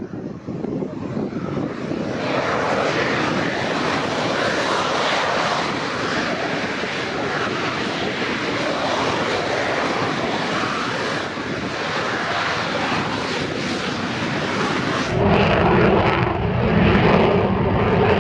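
Aircraft engine noise from a passing military training aircraft, swelling about two seconds in and holding steady. Near the end, heavy wind buffeting on the microphone rumbles under it.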